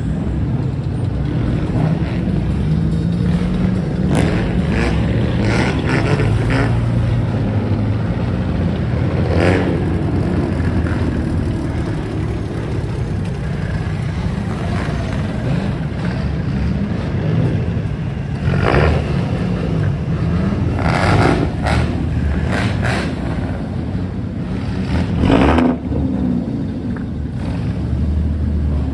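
Car engines running at a customised car meet, with a few short, louder bursts that sound like revving.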